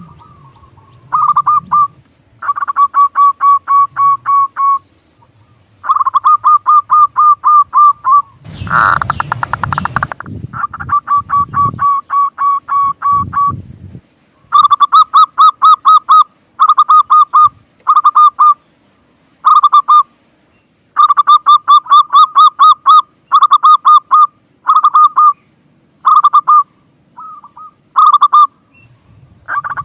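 Zebra dove (perkutut) calling in phrase after phrase of fast, evenly repeated notes, with short gaps between phrases. A brief burst of noise comes about nine seconds in.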